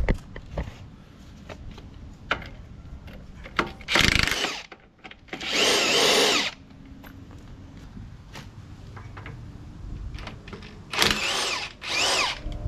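Handheld power tool run in four short bursts on the bolts of an excavator's track rollers, its pitch rising and falling as it spins, with scattered metal clicks between the runs.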